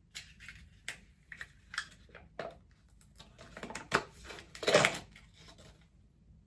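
Scooping powdered drink mix from a tub: a run of scrapes, taps and rustles of the scoop and container, with the loudest rustle about four and a half seconds in.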